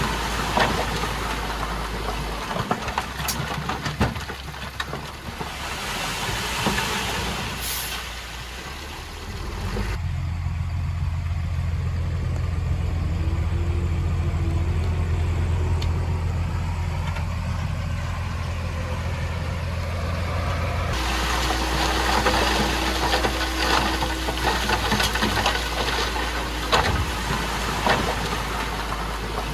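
Diesel engine of a heavy earthmoving machine running under work, with scattered sharp clanks. About ten seconds in the sound changes abruptly to a steady low drone for about ten seconds, then returns to the busier engine noise.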